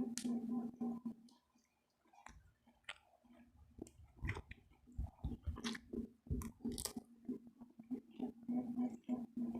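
A person chewing food close to the microphone: irregular wet chewing with crunchy bites and mouth clicks, pausing briefly near the start.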